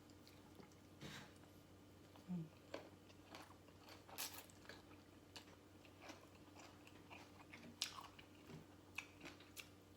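Faint chewing of papaya salad and raw vegetables close to the microphone: irregular short crunches and mouth clicks, about one a second.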